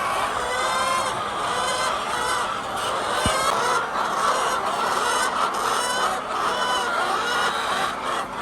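A flock of laying hens clucking and calling over one another in a dense, continuous chorus.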